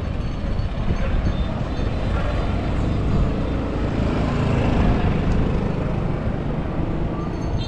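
A line of golf carts driving past one after another, a steady mix of tyre and motor noise.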